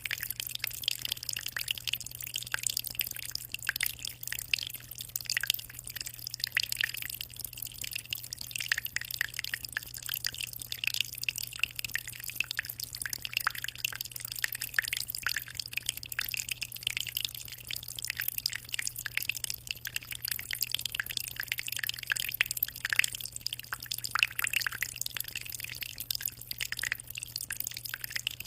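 Aquarium water trickling and splashing without pause, a dense patter of small drips and bubbles, over a steady low hum.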